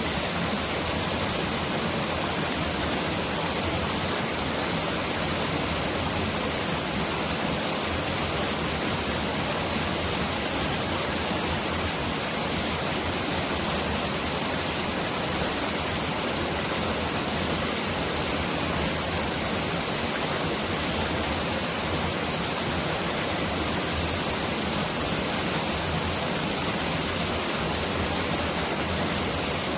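Mountain valley stream rushing steadily, a dense, even hiss of water that sounds like a heavy downpour.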